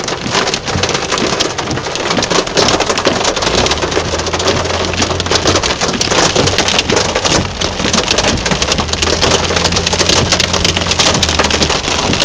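Heavy rain pelting down, a dense crackle of drops striking hard surfaces. A low steady hum comes in about three and a half seconds in and drops out shortly before the end.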